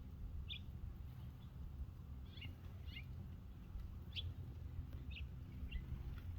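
Small songbirds giving short, high chirps, about half a dozen spread through, over a low steady rumble.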